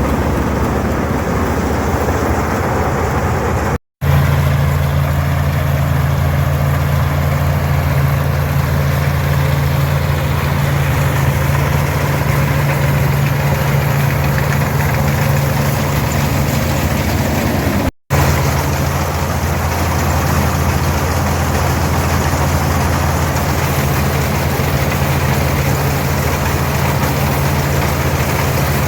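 International Harvester 460 tractor's six-cylinder D-282 diesel running steadily under load, driving a pull-type International 82 combine with its threshing machinery clattering and whirring over the engine. The sound cuts out briefly twice, about four seconds in and near the middle.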